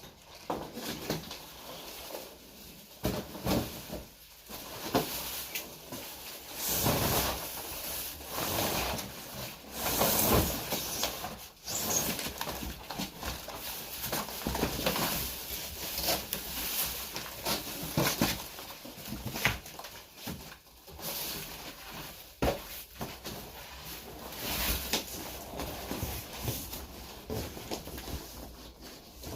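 Irregular rustling, scraping and scattered knocks of refrigerator packaging being handled during unboxing.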